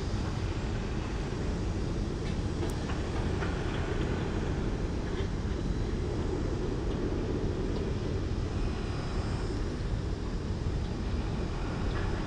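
Steady low rumbling noise with a few faint ticks.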